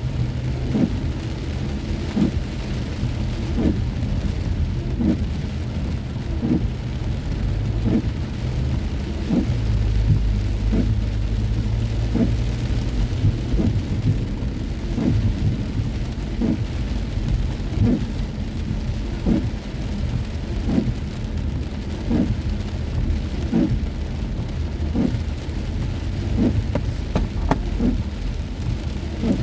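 Heavy rain on a moving car, over a steady low rumble of engine and road, with a regular soft thump about every second and a half.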